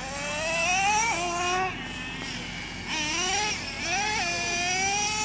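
Radio-controlled race cars accelerating around the track, their high-pitched motors whining and climbing in pitch, with a sudden drop in pitch about a second in and two or three cars overlapping near the end.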